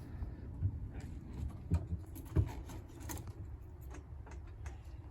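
Scattered light clicks and knocks with a few low thumps, irregular and unrhythmic; no engine is running.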